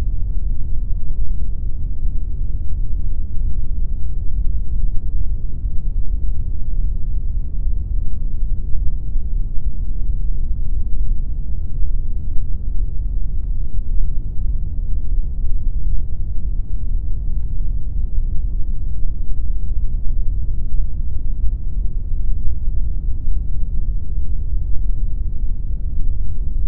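Steady synthesized pink noise: an unbroken hiss-like rush weighted heavily toward the low end, deep and rumbling with very little treble, never changing.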